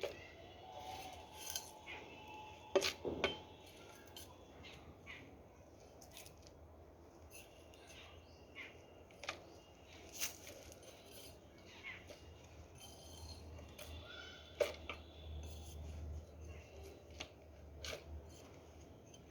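Small play tools clicking, tapping and scraping against a container of mud-like play sand in light, irregular strokes, with a few sharper knocks about three seconds in and again near ten and fifteen seconds.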